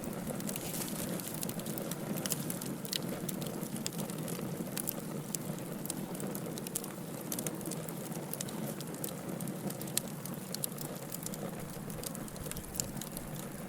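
Wood fire in a fireplace crackling: a steady low rush of burning with many quick, sharp pops and snaps.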